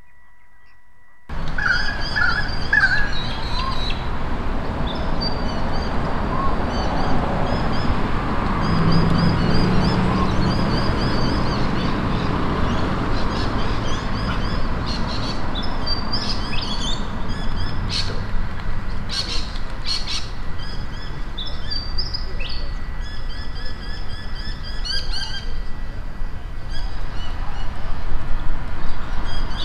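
Small birds chirping and calling continuously over a broad outdoor background noise, with a few sharp clicks past the middle.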